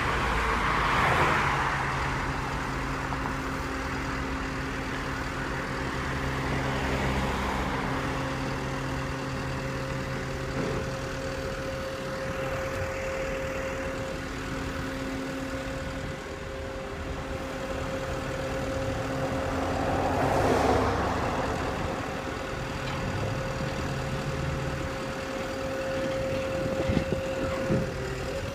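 A vehicle engine idling steadily, with passing traffic swelling up about a second in and again about twenty seconds in.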